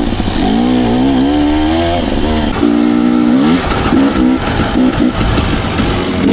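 Dirt bike engine revving under load, its pitch climbing over the first two seconds, holding briefly, then dropping about three and a half seconds in, followed by short choppy throttle blips.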